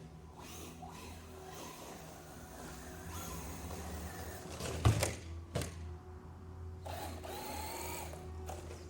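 Electric motor of an Arrma Kraton RC truck whining as it drives, with a loud sharp thud about halfway through and a smaller one just after; the whine rises again near the end.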